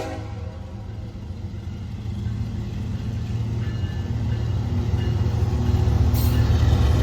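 Heavy diesel locomotives of a CSX freight train rumbling as the train pulls toward the microphone, the deep engine drone growing steadily louder.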